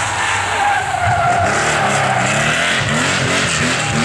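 Rally car driven hard past, its engine revving up and down through gear changes, with tyre skid noise.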